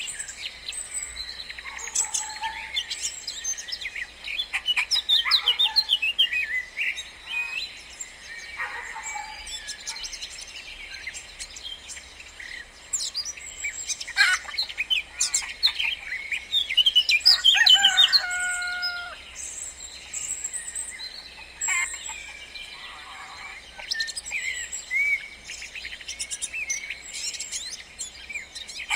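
Several songbirds chirping and singing, with overlapping short calls, quick trills and whistles and no steady rhythm.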